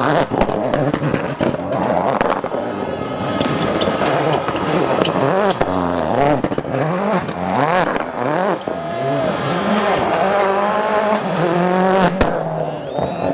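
Rally car engine revving hard, its pitch climbing and dropping again and again, with tyres squealing. A sharp bang comes near the end.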